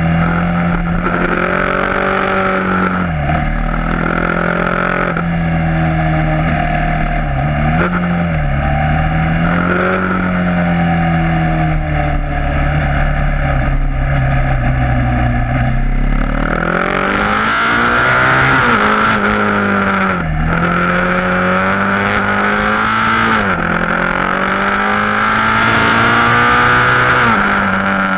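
KTM Duke 690 single-cylinder engine with an Akrapovic exhaust under way, its pitch repeatedly dipping and climbing as the rider rolls the throttle and shifts gears. From about halfway through, a louder rushing noise comes in over the engine as speed builds.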